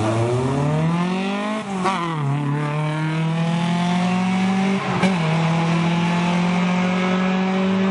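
Hillclimb race car's engine accelerating hard off the start line, rising in pitch through the gears with quick upshifts about two seconds in and again about five seconds in.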